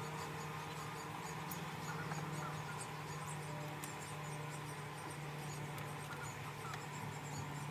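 Honeybees buzzing in a steady low hum around an open hive, with scattered faint small ticks and squeaks over it.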